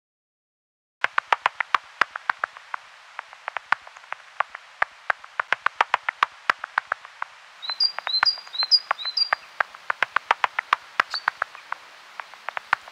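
Outdoor nature sound starting about a second in: a dense run of sharp, irregular clicks, with a bird's short chirp repeated four times in quick succession about two-thirds of the way through and once more a little later.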